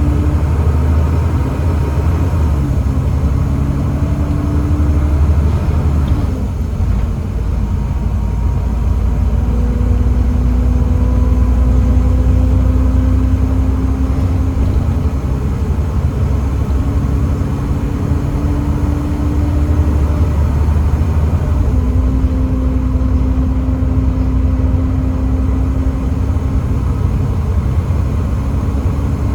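Volvo B7TL double-decker bus's 7.3-litre Volvo D7C diesel engine running steadily under way, with a low rumble. A thin whine rises slowly and breaks off, three times in turn.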